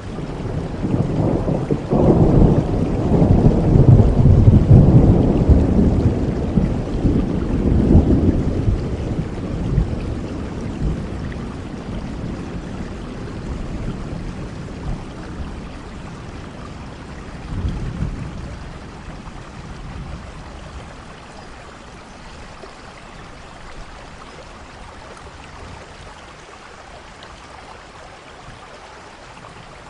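Thunder rumbling over steady rain: a long low rolling peal builds about two seconds in, peaks over the next several seconds and slowly dies away, with a shorter rumble near the middle, leaving only the rain hiss toward the end.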